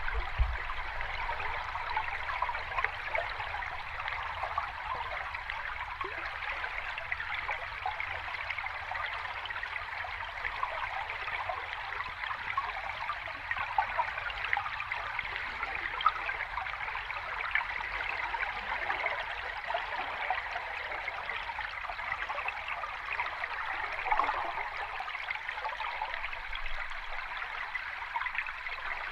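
Water of a small cascading stream running and splashing steadily, with brief louder splashes standing out now and then.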